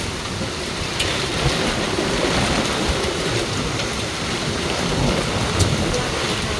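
Heavy rain pouring steadily in a thunderstorm, with a few sharp drop taps close by.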